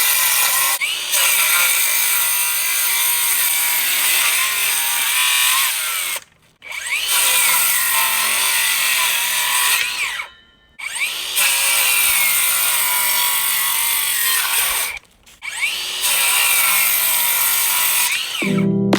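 Power saw cutting through wood in four long runs of a few seconds each with short breaks between, its pitch wavering as it works under load.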